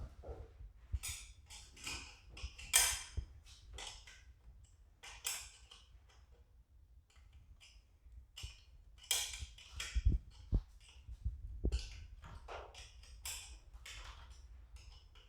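A 5/16 combination wrench working a screw tight on a garage door opener's gear housing: irregular metal clicks and short scrapes as the wrench is turned and refitted on the screw head, with a couple of heavier knocks about ten seconds in.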